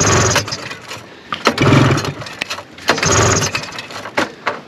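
Recoil starter on a 1974 Arctic Cat Lynx's fan-cooled 340 two-stroke engine pulled three times, about every second and a half, each pull a short rush of the cranking engine with clicks between pulls. The engine turns over but does not fire.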